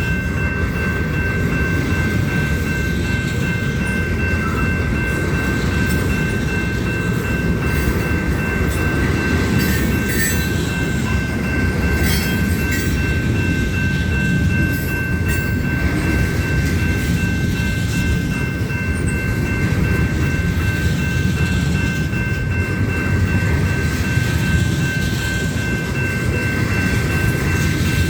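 Union Pacific train's cars rolling past with a steady, loud rumble, a thin steady ringing tone held above it, and a run of sharp metallic clanks about halfway through.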